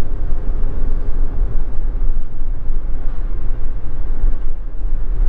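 Steady low rumble of the Mitsubishi Delica Mini's engine and road noise, heard from inside the car's cabin.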